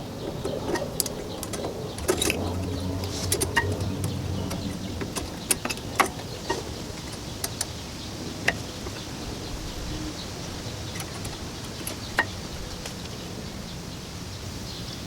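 Scattered sharp metallic clinks and taps from brake pads and tools being handled during a rear brake pad change, with a low hum for a few seconds early in the stretch.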